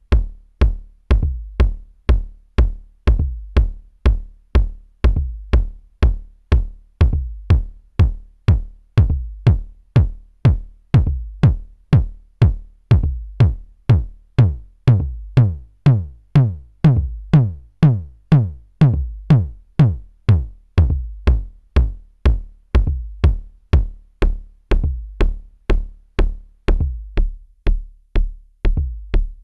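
Korg drumlogue kick drum repeating steadily about twice a second. In the middle stretch each hit takes on a longer tone that falls in pitch, as the kick's sound is being adjusted.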